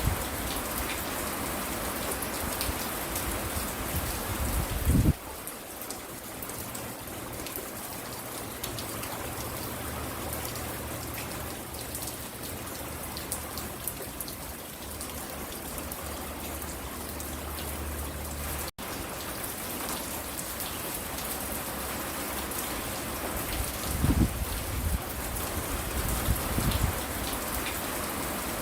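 Steady rain falling and pattering on a porch. A loud low thump comes about five seconds in, and brief low rumbles come near the end.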